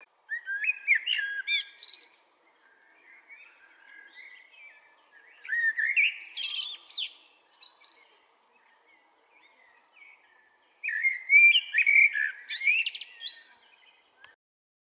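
Bird song: three loud bursts of rapid, warbling high notes about five seconds apart, with softer chirps in between.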